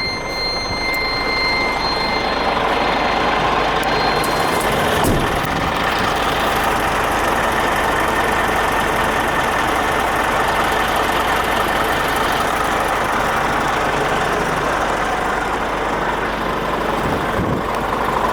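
Scania G450's six-cylinder diesel engine running steadily. A steady high tone sounds over it for the first couple of seconds and then fades out.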